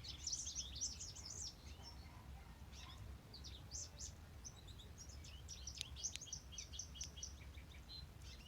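Small songbirds singing: a busy run of high notes in the first second or so, then scattered chirps and short phrases, over a faint low rumble.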